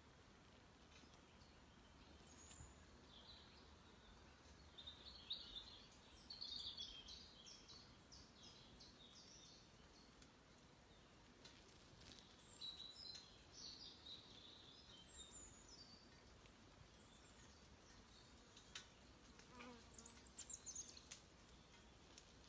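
Near silence in woodland, broken by faint high chirps and calls from small birds, coming in scattered bunches.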